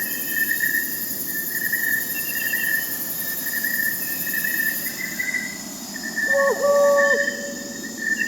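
Crickets trilling steadily in a continuous pulsing chirr, with a higher insect buzz that stops about five seconds in. An owl gives a single hoot of about a second, near the end.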